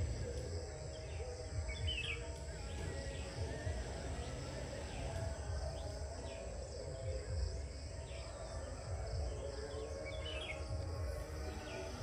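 Outdoor ambience of birds calling, with short high chirps about two seconds in and again near the end, over a steady low rumble.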